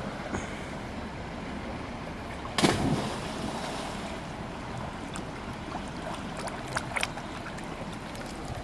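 Steady rush of river water, with one sudden loud burst about two and a half seconds in and a couple of faint clicks near the end.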